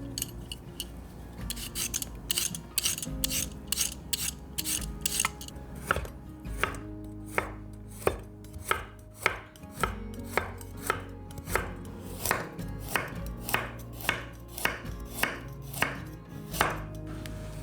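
Knife chopping on a cutting board. Irregular cuts at first, then a steady rhythm of about one and a half strokes a second.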